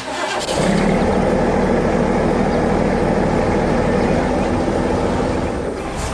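Heavy machinery engine rumble, loud and steady, starting about half a second in after a short click and easing slightly near the end.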